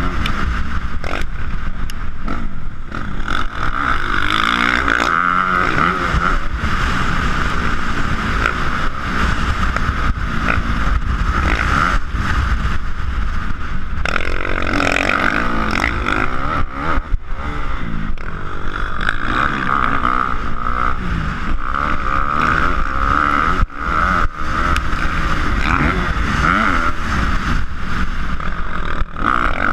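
Motocross dirt bike engine revving up and down over and over, with a heavy low rumble underneath.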